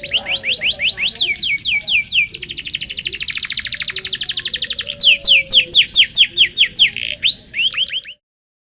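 Domestic canary singing rolling trills: long fast runs of repeated notes, many of them quick falling sweeps. The song gets louder about five seconds in and breaks off abruptly about eight seconds in.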